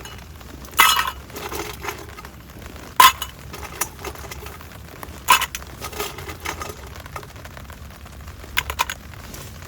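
Tableware being handled: four separate sharp clinks and knocks spread over several seconds, the sharpest about three seconds in, with a short double clink near the end.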